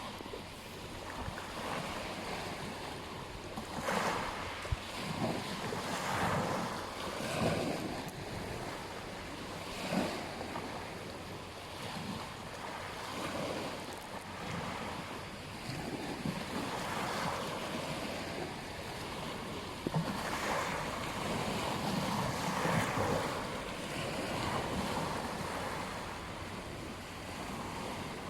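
Ocean waves breaking and washing on a beach, a steady hiss of surf that swells and falls every few seconds, with wind noise on the microphone.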